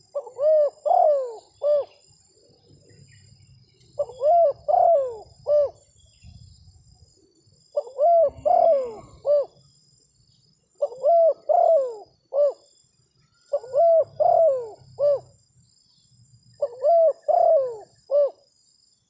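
Spotted dove (terkukur) cooing: a phrase of four or five coos, repeated six times at about one every three seconds, with a faint steady high buzz underneath.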